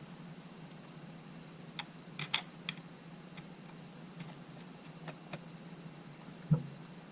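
Small hard clicks and taps of a camera body and small tools being handled on a workbench, in a quick cluster about two seconds in and a pair about five seconds in. Near the end comes one louder dull knock, as of the camera or a tool set down, over a steady low hum.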